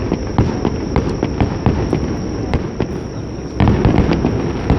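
Aerial fireworks bursting in a rapid series of sharp bangs and crackles over a continuous rumble, with a heavier flurry of bursts about three and a half seconds in.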